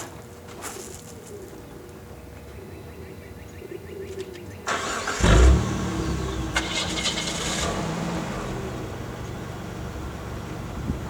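A car engine is cranked about five seconds in, catches with a brief loud flare, then settles into steady running.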